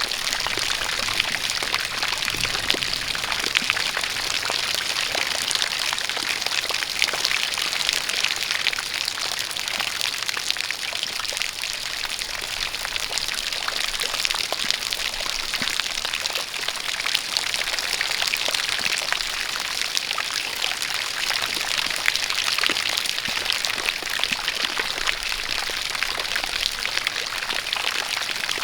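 Steady rain falling, with many fine drop patters, together with a jet of water pouring continuously.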